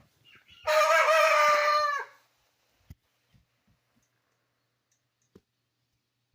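A rooster crowing once, a call about a second and a half long that drops in pitch at the end, followed by a couple of faint clicks.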